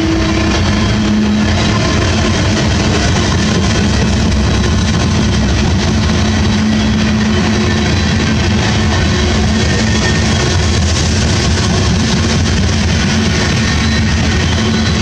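Loaded freight train of tank cars rolling steadily past: a continuous rumble and rush of steel wheels on the rails, with a faint held tone running through it.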